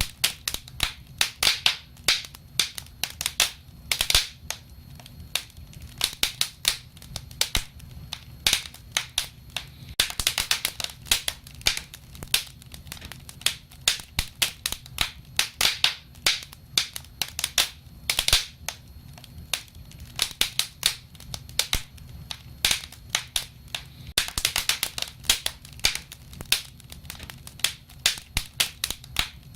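Wood fire crackling: irregular sharp snaps and pops of burning wood over a low steady rumble of the flames, with denser bursts of crackling at a few points.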